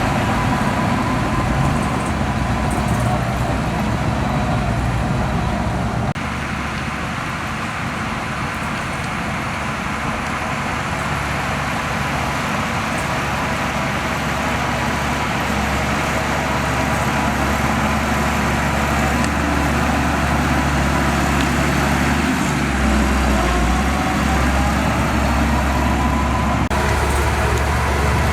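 Bulldozer's diesel engine running steadily at working load. The sound changes abruptly twice, about six seconds in and near the end.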